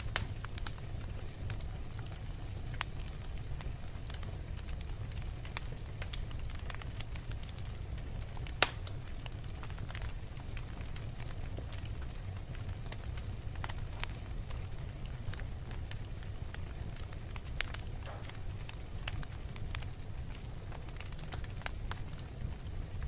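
Wood logs burning in a fireplace: a steady low rumble of flames with scattered crackles, and one sharp, loud pop about a third of the way through.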